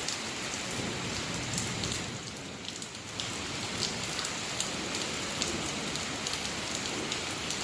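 Steady rain falling, with scattered drops ticking sharply on a surface.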